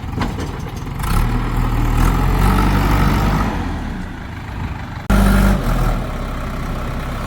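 Heavy diesel engine of earth-moving or farm machinery running under varying load, louder from about a second in, with an abrupt jump in level about five seconds in.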